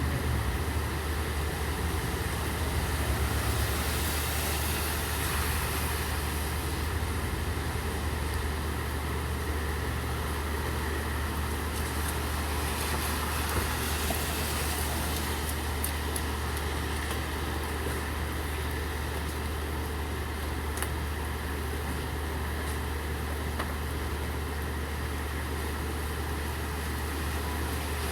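Steady rain falling, with a vehicle engine idling as a constant low hum underneath.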